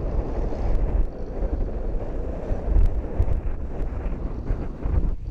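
Wind buffeting the microphone on an open ship deck: a gusty low rumble that swells and drops unevenly.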